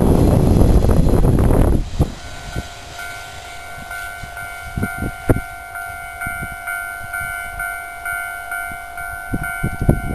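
A JR 583 series electric express train passes close with a loud rumble for the first two seconds, which drops away suddenly as the train moves off. A steady ringing tone with a pulsing beat then carries on until it cuts off near the end.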